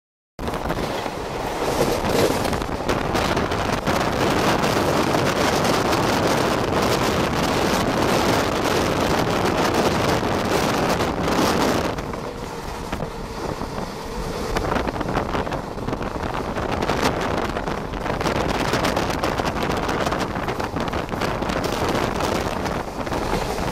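Running noise of a fast-moving passenger train heard from an open window or doorway, the rumble of wheels on rails mixed with heavy wind buffeting the microphone. The noise drops and changes character abruptly about halfway through.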